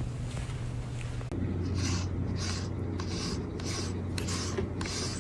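Rhythmic scratching strokes, about three a second, starting suddenly a little over a second in, over a low steady hum.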